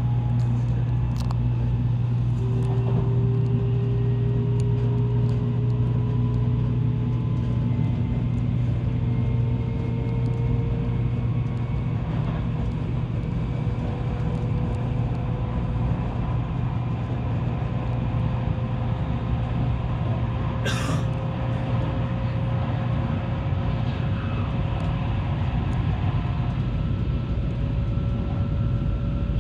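Tokaido Shinkansen train running along the line: a steady low rumble with faint whining tones that rise slowly in pitch, as the drive gathers speed. A brief hiss comes about twenty seconds in.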